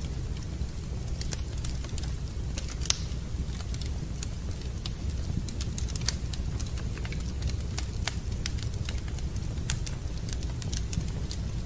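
Wood fire in a fireplace crackling, with sharp pops at irregular intervals over a steady low rumble; one pop about three seconds in is the loudest.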